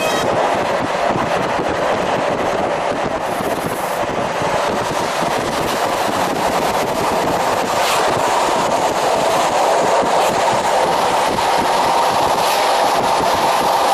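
Passenger train running steadily along the track, heard from inside the carriage: an even rumble of wheels on rails with a few light clicks.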